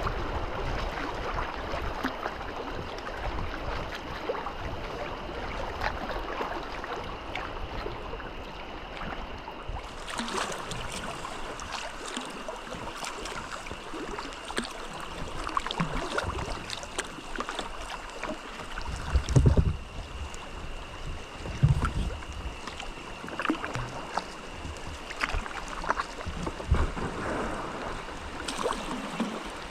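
Kayaks moving down a river: a steady wash of moving water with small splashes and clicks, and a few low thumps about two-thirds of the way through.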